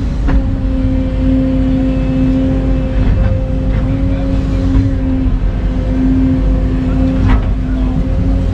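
Excavator's diesel engine running steadily under load with a constant whine over the rumble, and a few short sharp knocks scattered through.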